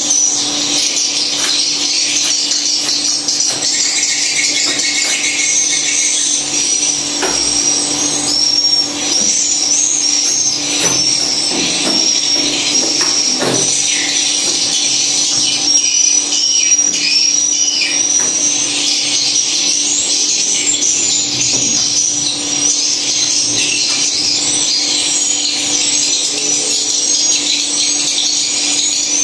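Swiftlets twittering: a continuous stream of rapid, high chirps, with a steady low hum underneath and a few scattered clicks.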